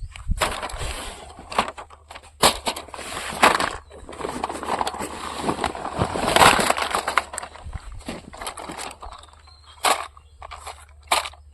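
Close crinkling, rustling and crunching with many sharp crackles, in uneven bursts that thin out to a few separate cracks near the end.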